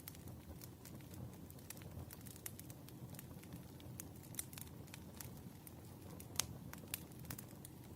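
Wood fire in a fireplace crackling: many small, irregular pops and snaps over a low, steady rumble of burning logs, with one sharper pop a little after six seconds in.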